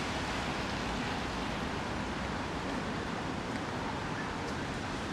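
Steady hiss of rain on a city street, with a low background rumble of traffic and a few faint drips ticking near the end.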